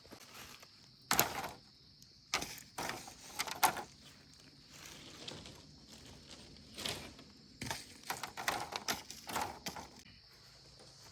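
Irregular knocks and thuds, some single and some in quick clusters of several, over a steady high-pitched hum.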